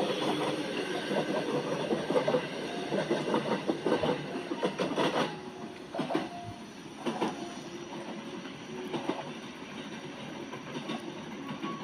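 Passenger train moving past along a station platform, its running noise broken by a string of wheel clacks over the rail joints. Louder for the first five seconds, then quieter.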